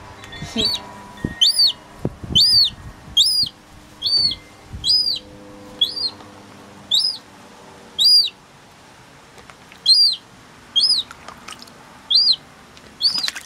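Young gull chick peeping over and over, about one thin high call a second, each rising and then falling in pitch.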